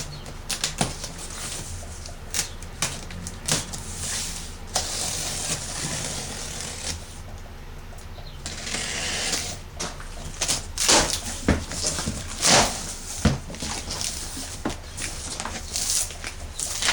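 Unboxing noises from a cardboard-packed planer: irregular knocks, clicks and scrapes as the box and packing are handled, with stretches of rustling, and a low steady hum underneath. The sharpest knocks come in the second half.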